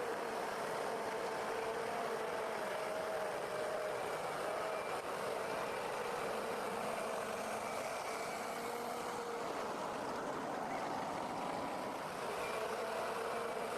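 Forestry forwarder's engine running steadily, with a faint whine that wavers slightly in pitch.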